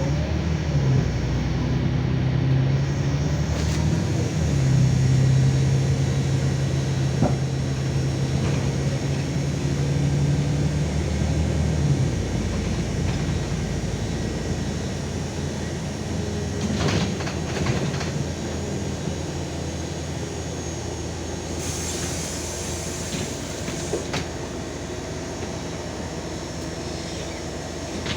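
Inside a LiAZ 5292.22 city bus on the move: the diesel engine's steady drone under road and body rattle noise. The engine note drops away about twelve seconds in, leaving tyre and body rumble with a few knocks.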